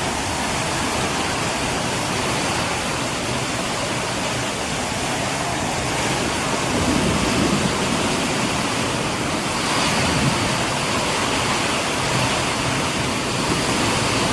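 Heavy rain pouring down in strong wind: a loud, steady hiss, swelling a few times as gusts come through.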